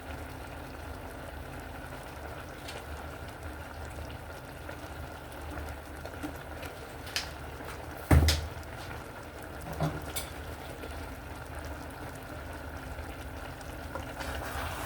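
A pot of okra soup bubbling steadily as it cooks, with a few short knocks, the loudest about eight seconds in.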